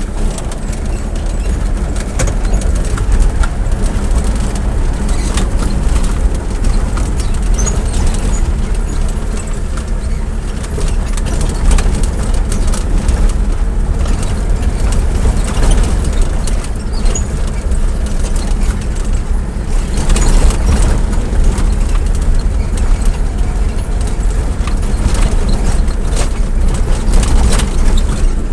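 Continuous noise of a moving road vehicle: low engine and road rumble with wind buffeting the microphone, and scattered small rattles and clicks.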